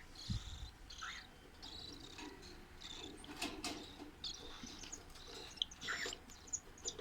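Caged cockatiels and lovebirds chirping: a run of short, high, buzzy chirps at irregular intervals, with a few rising calls in among them.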